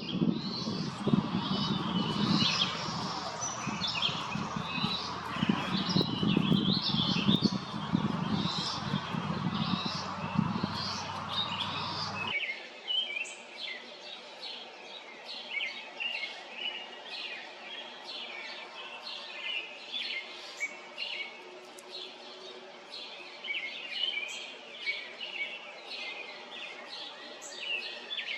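Several wild birds chirping and singing in quick, overlapping calls. For the first twelve seconds or so a low rushing noise lies under them, then stops abruptly and leaves the birdsong alone.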